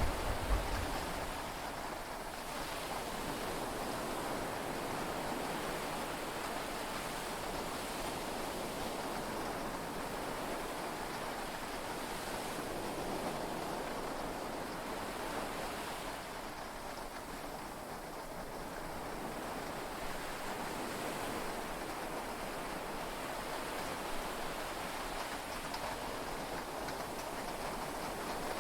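Heavy rain falling steadily on a yacht, heard from inside the cabin, with the wash of sea waves mixed in. A short low rumble sounds right at the start.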